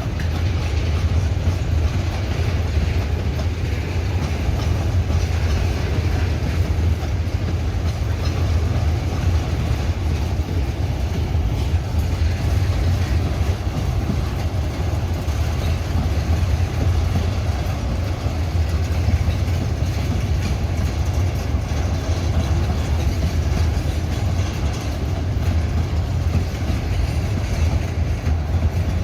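Freight train rolling past, its wagons running on the rails with a steady low rumble that does not let up.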